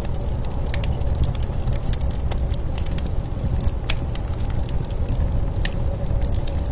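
Crackling fire with many sharp irregular pops, over a steady low rumble of blizzard wind.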